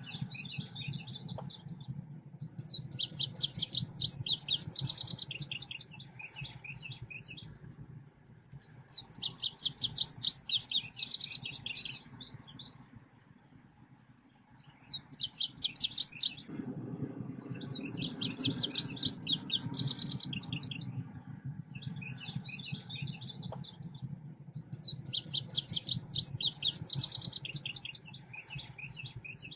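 Recorded birdsong of the bird sold as 'selendang biru', used as a masteran and pikat call for tutoring caged songbirds and luring wild ones: bursts of rapid, high chirping trills a few seconds long, repeating about every six seconds, over a faint low hum.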